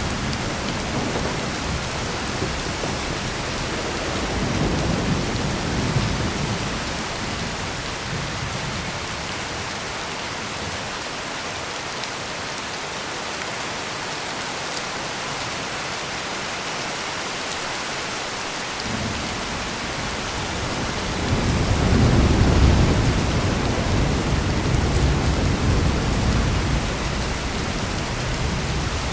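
Heavy rain pouring steadily, with rolling thunder: a low rumble swells a few seconds in and fades, then a longer, louder roll of thunder comes about two-thirds of the way through and dies away near the end.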